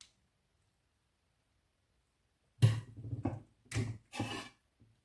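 Kitchenware being handled: a sharp knock about two and a half seconds in, followed by three shorter knocks and scrapes over the next two seconds.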